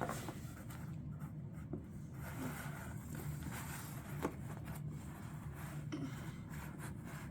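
Puzzle pieces being handled and set down, with faint rustling and a few light clicks, the sharpest about four seconds in, over a steady low room hum.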